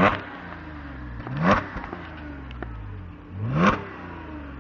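Audi S5 Cabriolet's supercharged 3.0 V6 exhaust as the engine is blipped three times while standing. Each rev rises quickly and then drops back to idle, about two seconds apart.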